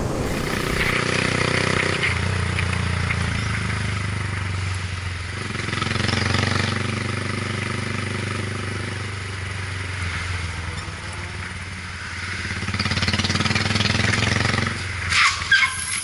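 Motor scooter engine running steadily while it is ridden, with road and air noise; a few sharp knocks near the end.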